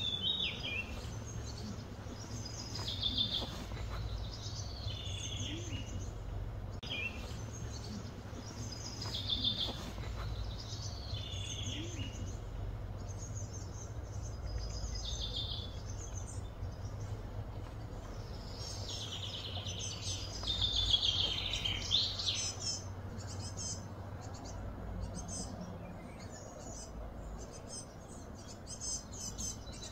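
Birds singing: short, high, falling song phrases repeated every two to three seconds, with a longer, louder stretch of song about twenty seconds in, over a steady low background hum.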